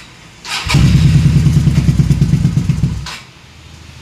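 Kawasaki superbike engine revved through its exhaust: one held rev that comes in about half a second in and drops away near the end.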